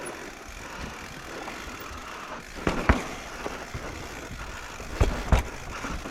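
Mountain bike rolling fast down a dirt trail: a steady rush of tyres and riding noise, with sharp rattling knocks from the bike over bumps, once about three seconds in and again around five seconds in.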